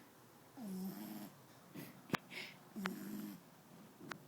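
An 11-week-old French bulldog puppy snoring in its sleep: two snores about two seconds apart, each a low buzzing rattle that falls in pitch. Short sharp knocks come between them, the loudest about two seconds in and another near the end.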